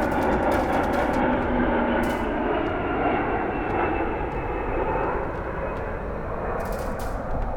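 Large military airplane's engines droning overhead, slowly fading as it passes, with a few tones sliding slightly lower in pitch.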